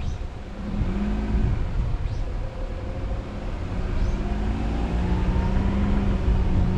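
Car engine and road rumble heard from the car itself while driving. The engine note rises as the car accelerates about a second in, then climbs again between about four and six seconds in.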